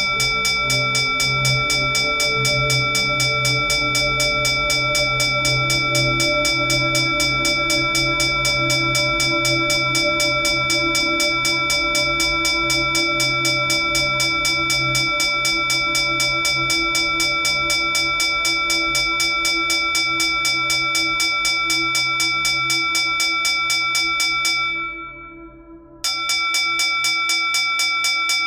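Pooja hand bell (ghanti) rung continuously with rapid, even strokes, several a second, its high ringing tones sustained over a low steady hum. Near the end the ringing fades out briefly, then starts again abruptly.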